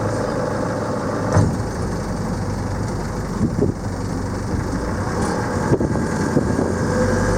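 Motorboat engine running steadily as the boat moves, with a couple of short knocks about a second and a half in and near the end.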